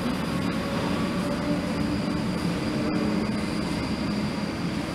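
South Western Railway electric multiple unit running past close below, giving a steady rumble of wheels and running gear with a thin, steady high whine over it.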